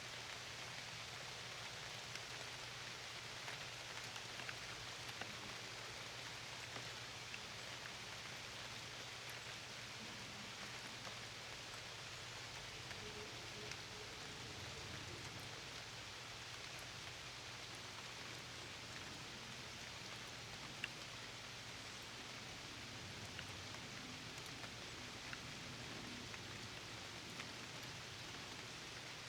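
Steady rain falling, an even hiss with many small drops ticking here and there.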